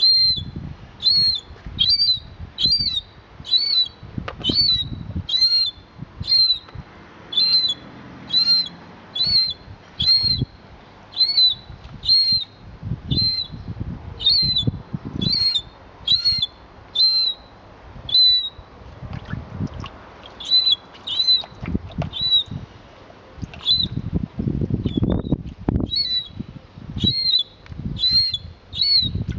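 A bird calling over and over, a short high chirp repeated about once a second at a steady pace, over irregular low rumbling noise.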